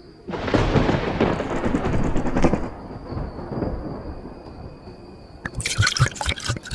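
Sound-effect intro of a sped-up dancehall track: a loud thunder-like rumble crashes in about a quarter second in and dies away over a few seconds. Near the end comes a rapid run of sharp gunfire-like cracks.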